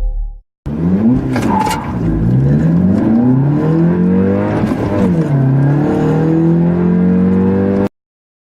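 Two turbocharged four-cylinder car engines, a 2015 VW Polo GTI's and a 2015 Honda Civic Type R's, accelerating hard from a standstill at the same time. Each engine note climbs in pitch and drops back at every upshift, the two notes crossing each other, until the sound cuts off suddenly near the end.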